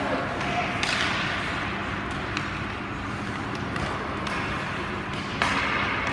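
Ice hockey play: sharp clacks of sticks and puck, with two longer scraping hisses of skates on ice, about a second in and near the end, over a steady rink hubbub.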